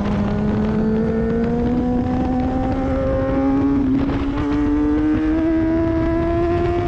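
Sport motorcycle engine pulling hard under acceleration, its pitch rising slowly and evenly as the revs climb.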